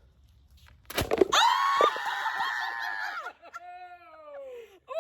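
A rubber-banded watermelon bursting with one sharp crack about a second in. Right after it comes a long, high-pitched scream, then a quieter cry that falls in pitch.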